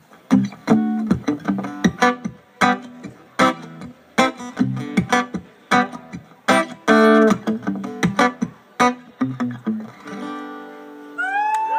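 Guitar strummed in a rhythmic instrumental ending to the song, closing on a held chord about ten seconds in. Whoops and cheers from the audience start near the end.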